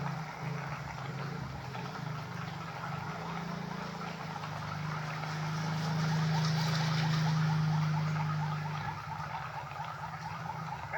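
A steady low engine hum that grows louder for a few seconds in the middle and then eases off.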